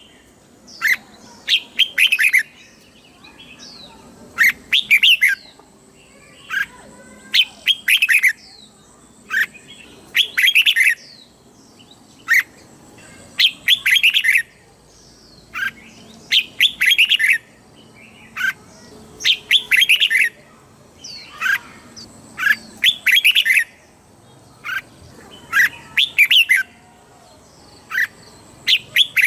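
Red-whiskered bulbul singing: short, bright warbled phrases with pauses of a second or two between them, often given twice in quick succession.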